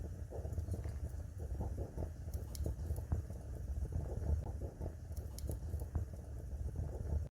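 Wood fire burning in a fireplace: irregular crackles and small pops of the burning logs over a steady low rumble of the flames.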